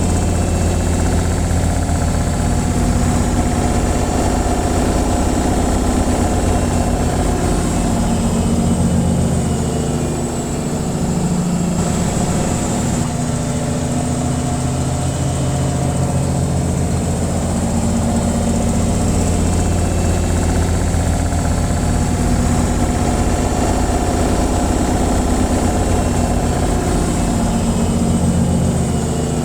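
Washing machine on its spin cycle, a steady low hum of the spinning drum and motor. It dips slightly in level about ten seconds in and again near the end.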